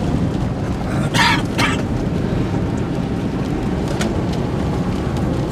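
Steady low rumble of a vehicle, with two short hissy bursts about a second in.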